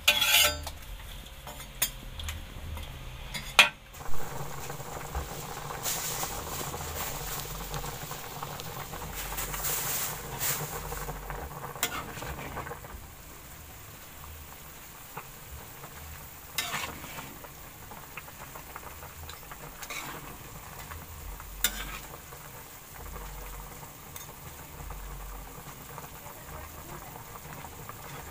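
Food frying and sizzling in a pan while it is stirred. A utensil knocks and scrapes against the pan now and then. The sizzle is louder for the first several seconds and then settles lower.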